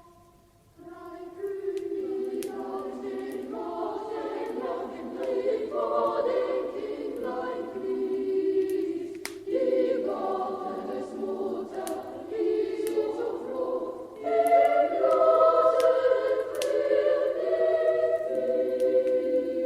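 A choir singing a Christmas carol, starting about a second in, with the sharp crackle of a wood fire popping now and then.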